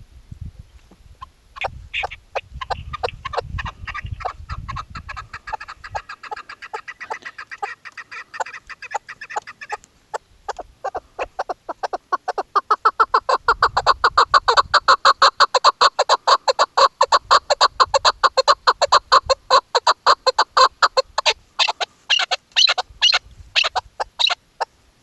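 Chukar partridge calling: a long run of rapid chuk notes, about six a second, that grows louder about ten seconds in and turns into quicker, sharper notes near the end.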